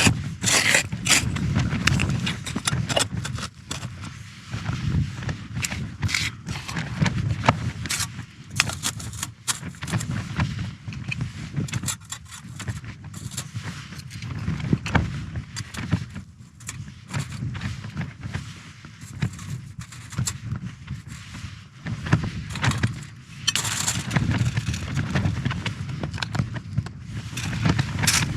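Strong wind gusting and buffeting, rising and falling in surges, with frequent scrapes and clicks of gear or tent fabric being moved close by.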